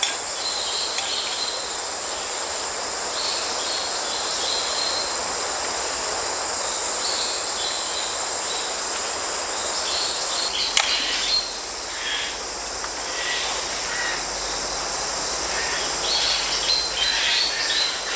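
Stream water running steadily, with insects keeping up a constant high trill and short bird chirps here and there. A single sharp click comes about eleven seconds in.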